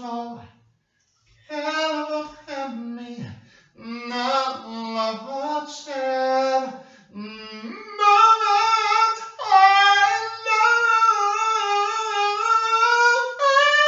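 A single voice singing without accompaniment: short phrases in a middle register, then, from about eight seconds in, long high held notes with vibrato.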